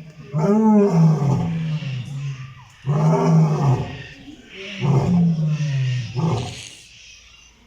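A big cat roaring: a series of loud, low moaning calls, each rising then falling in pitch, the later calls shorter than the first.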